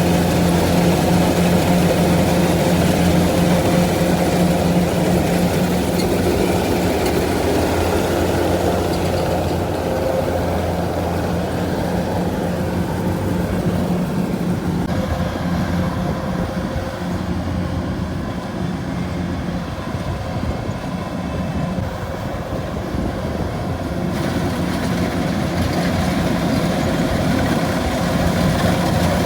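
A farm machine's engine running steadily, a little quieter for a while in the middle.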